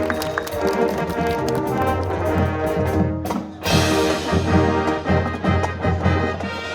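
High school marching band playing, its brass holding full chords. A little past halfway the sound drops away for a moment, then the full band comes back in loud.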